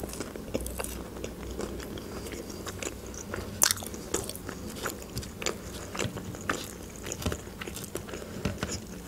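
Close-miked chewing of breaded chicken nuggets: irregular small mouth clicks and crunches, with one louder click about three and a half seconds in.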